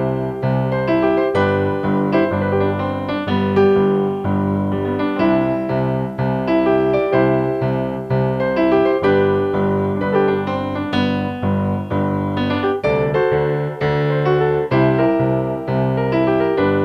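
Piano playing chords and melody notes struck in a steady, lively rhythm.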